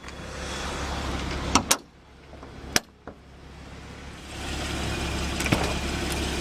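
Car door latch and handle clicking sharply a few times, likely the Porsche Cayman R's door being opened, over a steady low hum and hiss.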